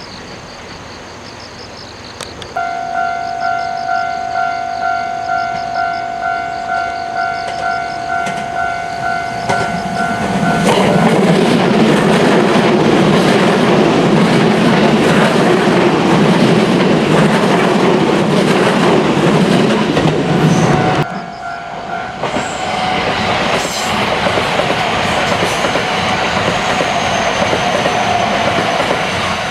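A level crossing warning bell rings in steady pulses about twice a second. About ten seconds in, a train passes loudly with clattering wheels, drowning out the bell. The train's noise drops away suddenly near the end, leaving the bell sounding more faintly.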